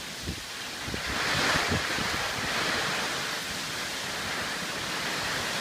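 Storm wind and rain rushing, swelling in a gust about a second in and then holding steady.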